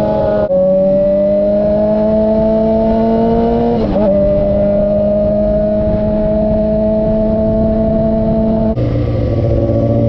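2006 Suzuki GSX-R600 inline-four through a Coffman's exhaust, pulling under load with its pitch climbing steadily. It upshifts about half a second in and again about four seconds in, each time dropping in pitch and then climbing again. The note changes near the end, as the throttle eases.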